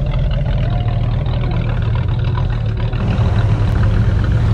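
V8 engines of classic muscle cars, a Dodge Challenger R/T and then a Pontiac GTO, running at a slow roll as they drive past. The note is low and steady and gets louder about three seconds in as the second car comes closer.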